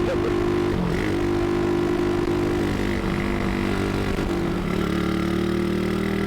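The tuned Modenas Jaguh engine of the Seri Perlis prototype motorcycle running under way, with a loud airbox intake. The engine note dips briefly a couple of times, then settles to a lower, steady pitch about three-quarters of the way through as the revs drop.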